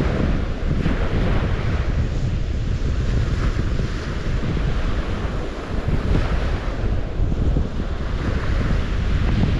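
Steady rush of moving water, swelling now and then, with wind buffeting the microphone and a low rumble underneath.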